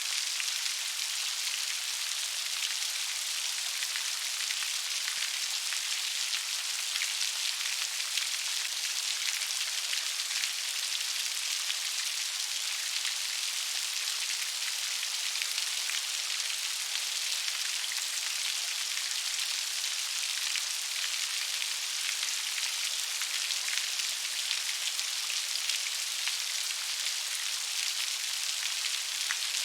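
Steady gentle rain, an even hiss of many fine drops with no thunder and no change in strength.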